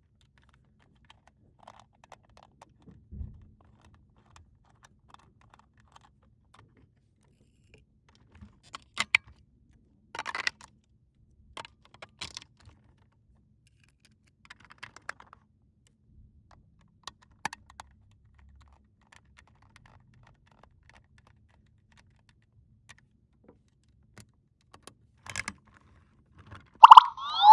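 Sparse, faint clicks and taps of small plastic toy pieces being handled, a few a second at most, with louder clusters around ten to twelve seconds in. Near the end a loud cartoon boing sound effect starts, with music.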